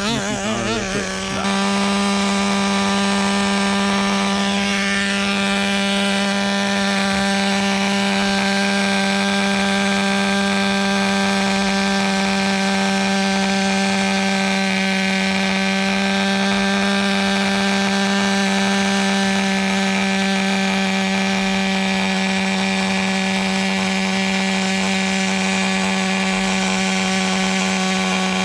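Small single-cylinder glow-fuel engine of a nitro RC truck (Traxxas Nitro Rustler, TRX 2.5) running at a steady high speed with a constant buzzing whine. The pitch wavers for the first second and a half, then holds level. The engine is fresh out of the box and being broken in at quarter throttle.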